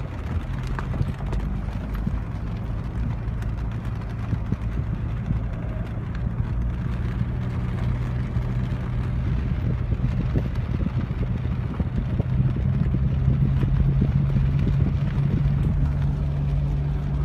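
A car running, heard from inside the cabin: a steady low engine and road hum that swells a little after the middle, with scattered small ticks.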